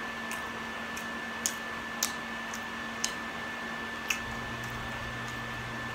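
Quiet room hiss with a thin steady whine, broken by a few soft, sharp mouth clicks from slow chewing. A low hum joins a little after four seconds in.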